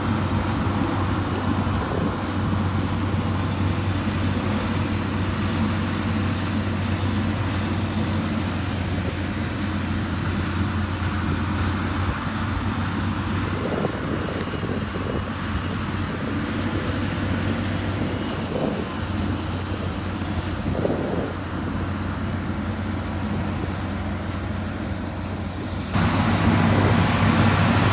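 A heavy diesel engine on construction machinery runs steadily, with a few faint knocks. About two seconds before the end the sound suddenly gets louder.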